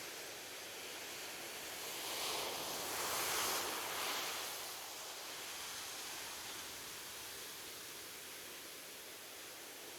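Ocean waves on a beach: a steady surf hiss, with one wave swelling about two seconds in, loudest around three and a half seconds, and washing away by about five seconds.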